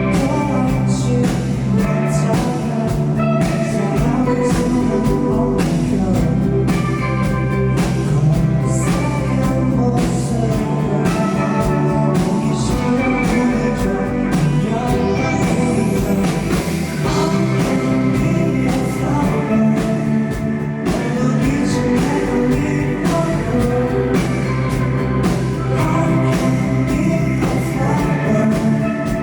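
Live rock band playing a song, with drums keeping a steady beat under sustained guitar and bass chords.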